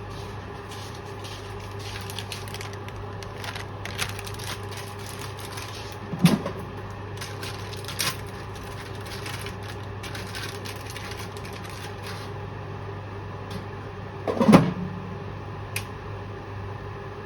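Kitchen handling noises over a steady low appliance hum: scattered light clicks and taps, with two louder knocks about six and fourteen seconds in.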